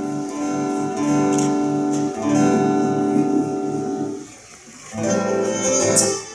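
Guitar playing sustained chords as a song's instrumental intro, breaking off briefly about four seconds in before starting again.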